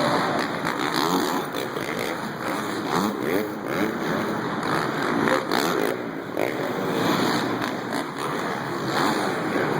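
Several dirt bike engines revving up and down together, their pitch rising and falling over and over.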